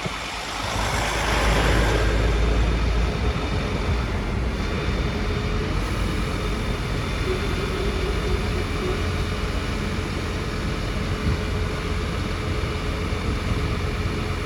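Scania P270 truck's five-cylinder diesel engine running steadily, with a hiss in the first couple of seconds.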